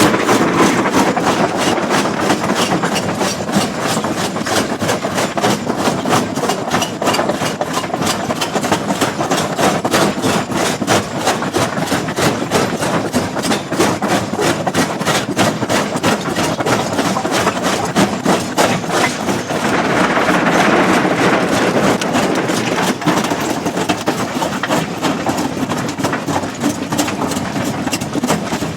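Heavy stone-crushing machinery running: an engine with a rapid, even knocking of stone being broken, getting a little harsher about twenty seconds in.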